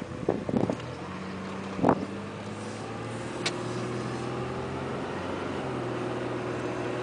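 Car engine running steadily, heard from inside the vehicle as a low even hum, with a few knocks in the first two seconds and a sharp click a little later.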